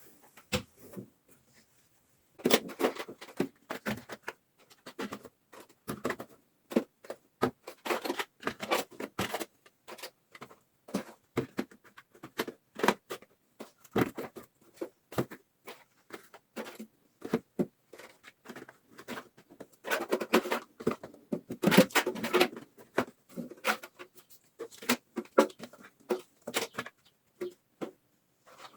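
Refrigerator cleaning: a steady run of irregular clicks, knocks and clatter as containers, shelves and other items are handled, moved and set down. The clatter is densest about two-thirds of the way in.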